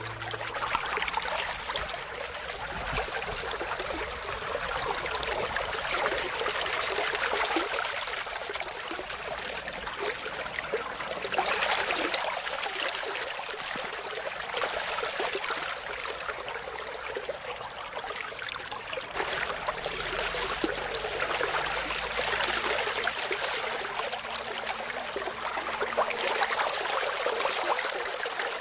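Steady rushing noise like flowing water, swelling and easing every few seconds.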